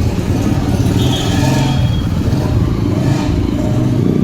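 Road traffic: motor vehicle engines running close by, with vehicles going past about a second and a half in and again about three seconds in.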